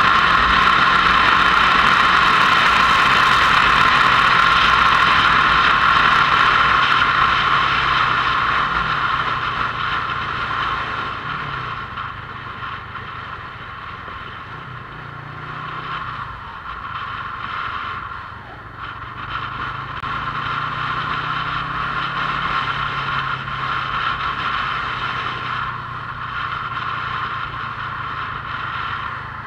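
Motorcycle on the move: the engine runs under a loud rush of wind noise. After about eight seconds it eases off as the bike slows, and the engine pitch rises and falls with the throttle.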